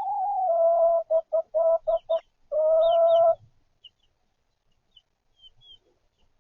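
A chicken calling: a long drawn-out note, then a quick run of about five short clucks, then another drawn-out note that breaks off about three and a half seconds in. Chicks peep faintly throughout.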